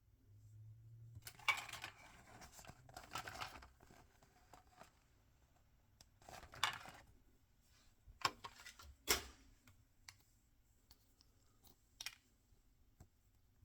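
Hands opening toy packaging: crinkling and tearing of a wrapper in a few short bursts, then several sharp clicks and taps as the pieces are handled.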